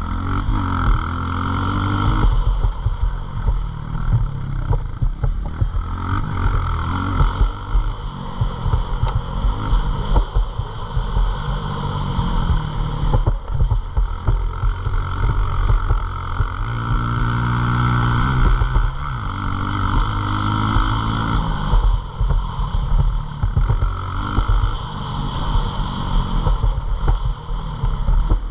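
Pit bike engine running and revving, its pitch climbing and dropping back several times, with the sharpest rises near the start and again a little past the middle.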